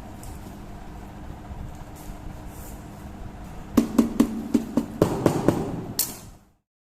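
Steady low hum of a workshop, then about four seconds in a quick run of about ten sharp knocks, roughly four a second, like hand tool strikes on a bench. The sound cuts off suddenly near the end.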